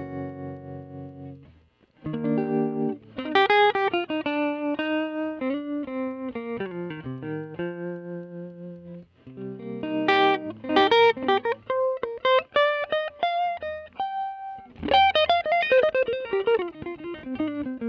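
Electric guitar played through a 1957 Fender Vibrolux tweed tube amp and its original 10-inch Jensen speaker, with the amp's vibrato on, giving a pulsing, wavering tone. A chord rings out and fades in the first two seconds, then single-note lines and chords follow, with a falling run near the end.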